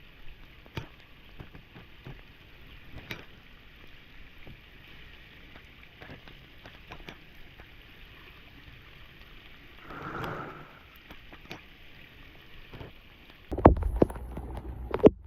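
Steady hiss of water with scattered light taps and a brief swell about ten seconds in, then a louder run of knocks near the end.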